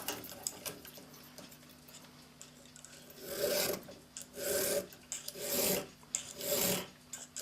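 Hand file cutting across the end of an annealed steel clock mainspring, four slow rasping strokes about a second apart starting about three seconds in, rounding the end off to shape.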